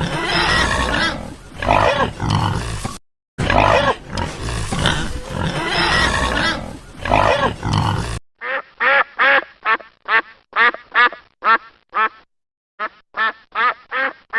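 Farm animal calls: about eight seconds of a busy, overlapping chorus of grunting calls, then a duck quacking in quick runs of about three to four quacks a second, with a short pause before the last run.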